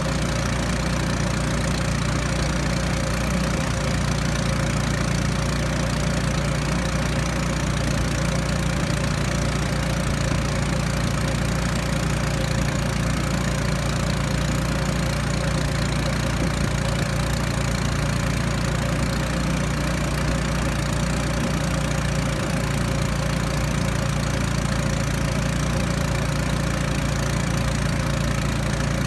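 Small outboard motor of a river raft running steadily at an even speed.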